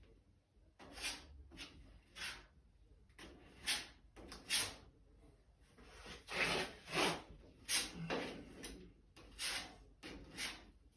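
Body filler being spread onto a car body panel with a spreader: short scraping strokes, about one a second, some louder than others.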